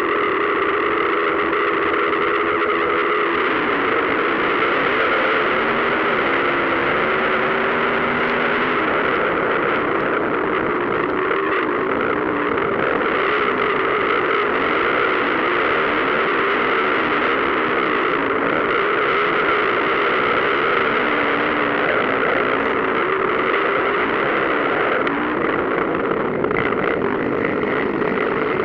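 Several motocross bikes racing, their engines revving up and down and overlapping, heavily distorted by an overloaded microphone.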